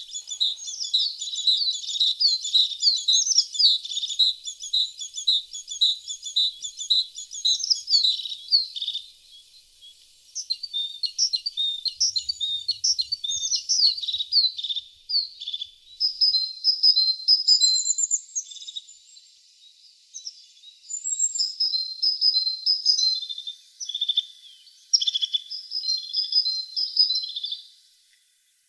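Tits singing: fast runs of high, chirping notes in phrases. The song breaks off briefly about ten seconds in and again about twenty seconds in.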